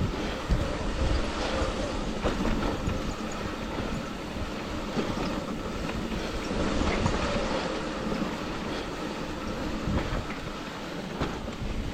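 Trek Rail electric mountain bike rolling fast over a rough dirt trail: a continuous rattle and clatter of tyres, chain and frame, with frequent small knocks from bumps.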